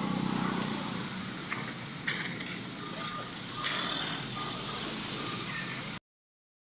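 An engine running steadily, with a few short knocks and clicks over it; the sound cuts off abruptly about six seconds in.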